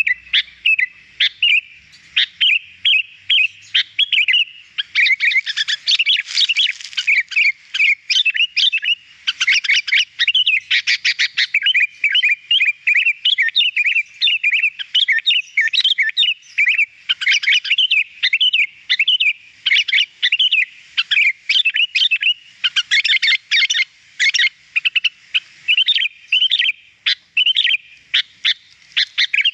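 Sooty-headed bulbul (kutilang) singing without pause: a rapid, unbroken run of short chirps and warbled notes, with busier, denser stretches about six, ten and twenty-three seconds in.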